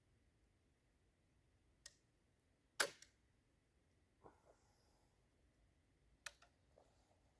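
Sharp mechanical clicks from a flintlock's lock: the cock being drawn back and the flint snapping down against the frizzen, the loudest snap about three seconds in and another past six seconds. No shot follows; the charge does not fire.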